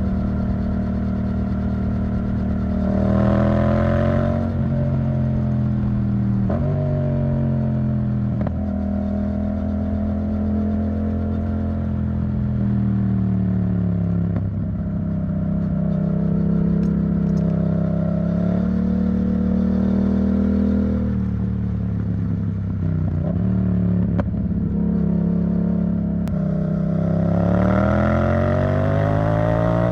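Yamaha MT-07 parallel-twin engine running through an Arrow Thunder titanium exhaust, its pitch rising and falling repeatedly as engine speed changes, with the strongest climbs about three seconds in and again near the end.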